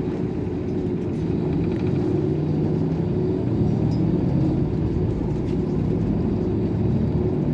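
Airport shuttle bus driving with its engine running: a steady low rumble that grows a little louder about a second in.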